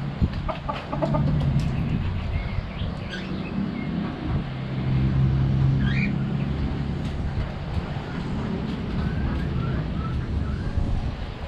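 Budgerigars chirping in short calls and one rising squeak about six seconds in, over a steady low hum.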